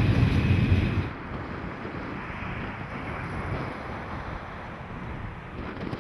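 Train passing with a loud low rumble that cuts off abruptly about a second in. After the cut comes steady wind noise on the microphone over a faint distant rumble.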